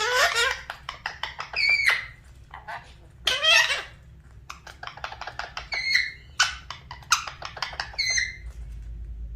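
Pet parrot vocalising: loud harsh squawks at the start and again about three seconds in, with short whistled chirps and quick clicking chatter in between.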